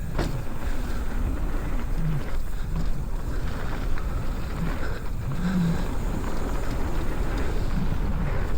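Steady rushing noise from a mountain bike run: wind on the microphone and tyres rolling over a dirt trail, with a brief click right at the start.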